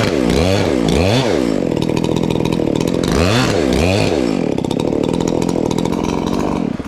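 Chainsaw running hard in a fir trunk's back cut, its engine pitch swinging up and down a few times as it cuts. The saw stops abruptly near the end.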